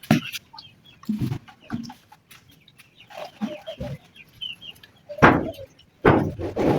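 Chickens clucking, mixed with a series of separate knocks and bumps; the loudest come near the end.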